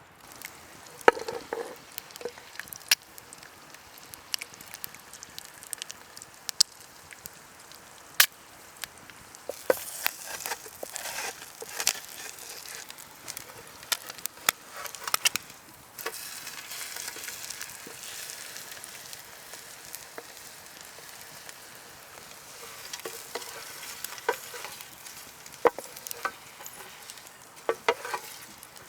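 Food sizzling over an open campfire, with scattered sharp clicks and knocks throughout and the sizzle swelling in the middle and near the end.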